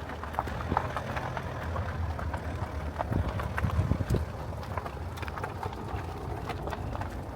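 A horse's hooves clopping in an uneven, irregular pattern of short knocks, over a low rumble of wind on the microphone.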